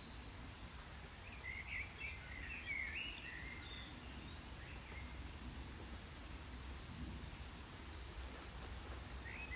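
Outdoor garden ambience: a steady hiss with a low rumble, and birds chirping in short gliding calls, mostly between about one and three seconds in and again near the end.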